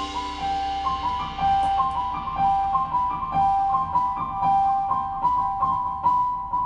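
Live instrumental band music: a repeating melodic figure of two alternating high notes, with light cymbal taps over it.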